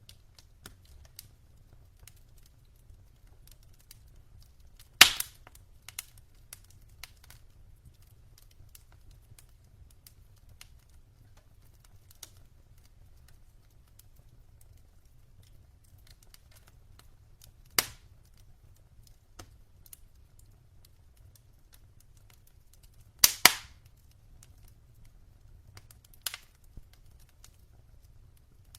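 Wood fire crackling: scattered small ticks with a few sharp loud pops, two of them in quick succession about two-thirds of the way through, over a faint low rumble.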